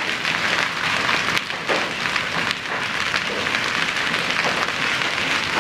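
Heavy rain pouring down in a steady, dense hiss of drops.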